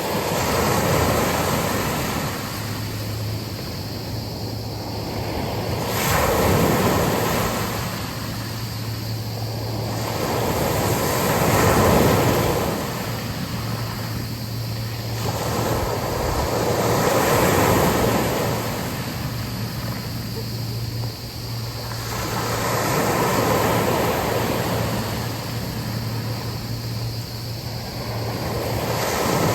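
Sea waves breaking and washing up on a beach, a swell of surf about every five to six seconds, with a steady low hum underneath.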